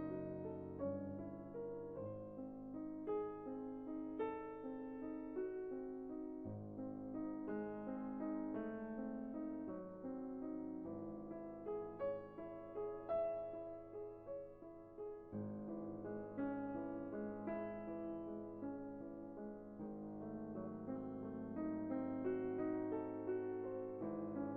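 Background piano music, a steady run of held notes with a low sustained bass beneath.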